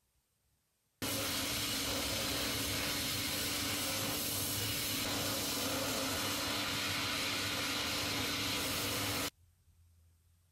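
Steady, loud hiss of a compressed-air shop tool, with a low steady hum beneath. It starts suddenly about a second in and cuts off suddenly about a second before the end.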